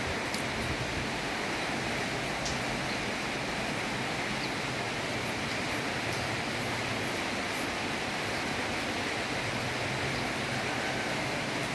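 Steady rain rushing, with a low hum underneath and a few faint ticks.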